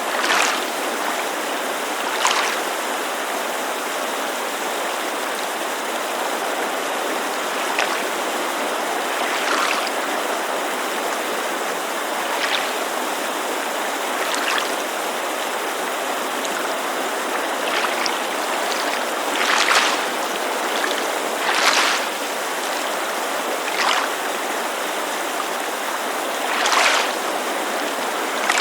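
Steady rush of a mountain creek, overlaid with small waves lapping against a lake shore: brief soft splashes come irregularly, every two or three seconds.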